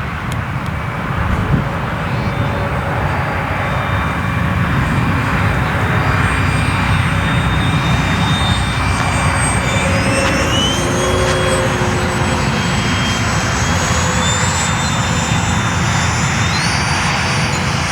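Electric ducted-fan RC model jet flying by: a steady rushing whine whose pitch steps up twice, about ten seconds in and again near the end.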